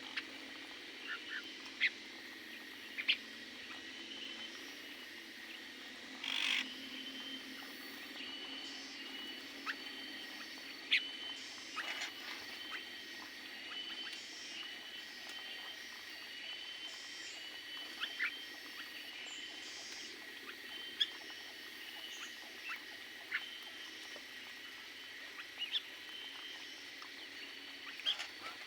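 Small aviary birds chirping: a long run of short, evenly repeated chirps, about three every two seconds, with scattered sharp single calls or clicks among them, over a faint steady high whine.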